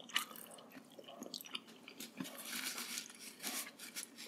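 Close-miked chewing and small wet mouth clicks of people eating braised pork hock and rice by hand, with a short stretch of soft rustling about halfway through.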